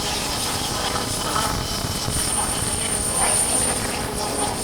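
Motorcycle being ridden, its engine running under a steady rush of road and wind noise, with a thin high whistle for a second or so midway.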